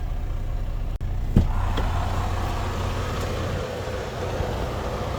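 Truck engine idling with a steady low rumble, and a single sharp knock about a second and a half in.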